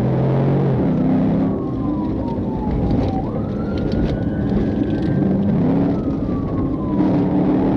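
Police siren wailing in one slow sweep, falling, rising again about three seconds in, then falling, over a vehicle engine running under load and loud road noise.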